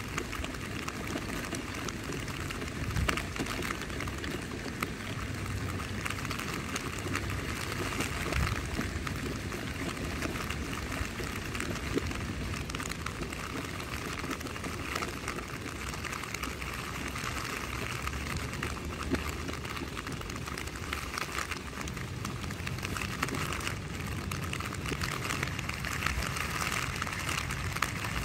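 Rain falling steadily on a tent's fabric: a continuous patter of many small drops, with an occasional louder drop.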